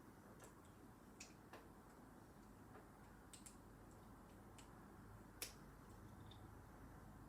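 Quiet room tone with sparse, faint clicks of plastic Lego pieces being handled and pressed together, about seven in all, the sharpest about five and a half seconds in.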